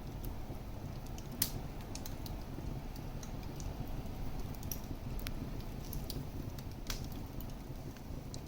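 Wood fire crackling in a fireplace: irregular sharp pops and snaps over a steady low rumble of the flames, with the loudest pops about a second and a half in and again near seven seconds.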